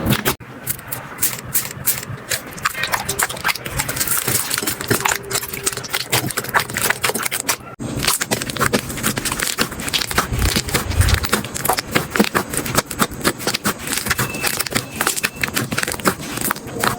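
Slime being squished and pressed by hand, giving a dense run of quick sticky clicks and crackling pops, with a brief break about halfway.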